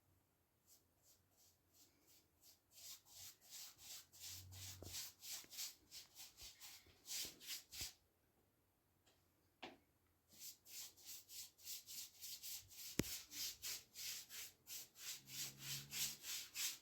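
Soft, rhythmic rubbing strokes by hand against a surface, about three a second. They stop for about two seconds midway and then start again at the same pace.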